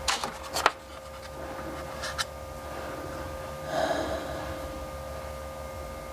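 A few sharp clicks and knocks, then a brief scraping rustle about four seconds in, over a steady electrical hum.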